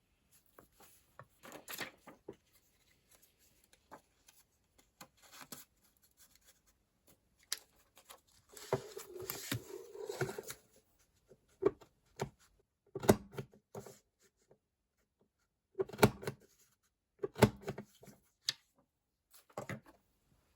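Paper and stationery being handled on a desk during planner setup: scattered soft rustles, a couple of seconds of continuous rustling or scraping about halfway through, then a few sharp knocks as things are set down or tapped.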